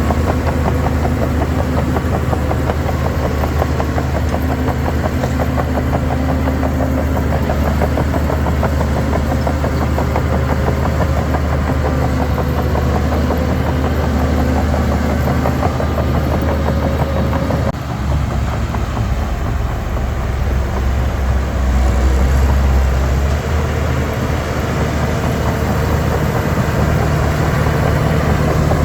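Heavy diesel engine of a Shantui DH17 C3 bulldozer running steadily under load. It dips briefly about two-thirds of the way through, then gives a deeper, louder low rumble for a few seconds before settling back.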